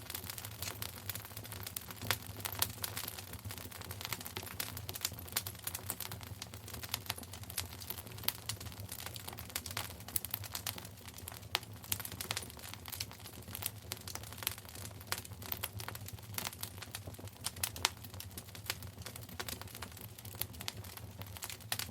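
Wood fire in a fireplace crackling, a dense run of sharp irregular pops and snaps over a low steady rumble of the flames.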